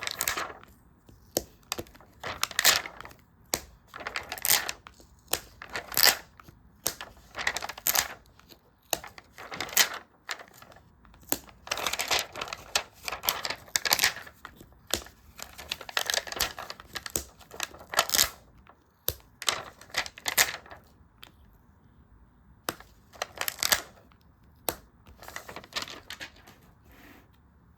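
Close-up sticker and paper handling: irregular short crinkly rustles and taps, often several in quick succession, with a brief lull about three quarters through.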